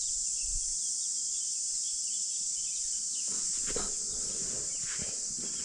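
Steady, high-pitched chorus of insects such as crickets, with faint bird chirps in the first second or so and a few faint knocks after about three seconds.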